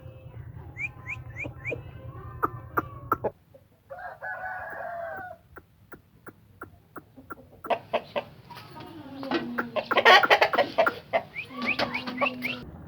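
Aseel chickens clucking and calling, with many short sharp calls and a longer drawn-out call about four seconds in; the calling grows busier and louder near the end.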